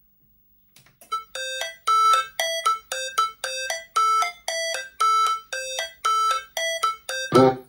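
A simple chime-like melody of short, separate electronic notes, about three a second, played back through a Sony MHC-V808 mini hi-fi system's speakers. A louder, fuller chord comes in just before the end.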